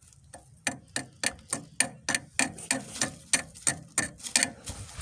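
Hand tool work on the tractor's steering linkage: a regular series of sharp metallic clicks, about three a second, stopping near the end.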